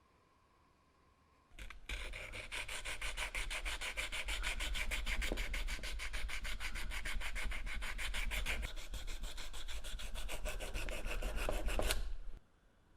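Abrasive rubbing on a part, in fast, even strokes of about seven a second. It starts about a second and a half in and stops suddenly near the end.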